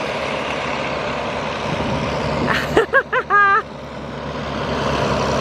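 Tractor engines running as the tractors drive past, their rumble building toward the end. About three seconds in comes a loud, short warbling call that wavers rapidly in pitch.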